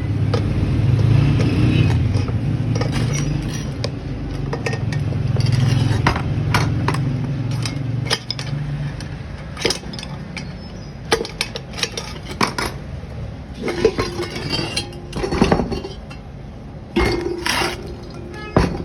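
Metal tools and parts clinking and knocking against one another, in irregular single strikes and short clusters. A low hum runs under them and fades out about eight seconds in.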